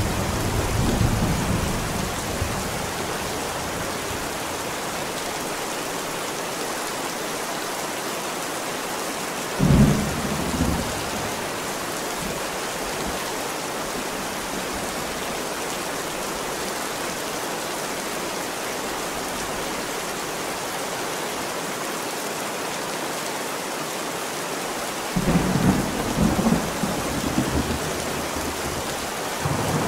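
Thunderstorm: rain falling steadily, with thunder. A rumble dies away in the first couple of seconds, a sudden sharp clap comes about ten seconds in, and rolling rumbles follow over the last five seconds.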